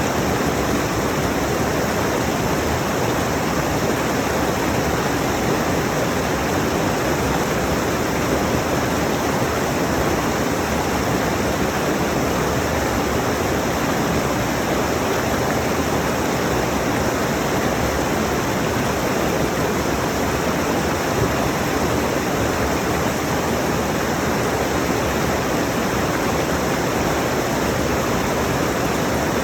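Mountain stream rushing over rocks, a steady, unbroken roar of water.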